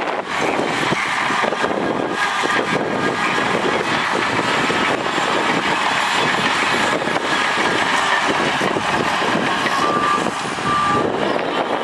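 Heavy diesel earthmoving machinery running under load, with two short reversing beeps near the end.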